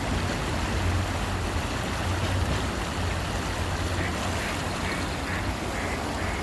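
Duck quacking: a row of short quacks, about two a second, starting about four seconds in, over a steady background rush.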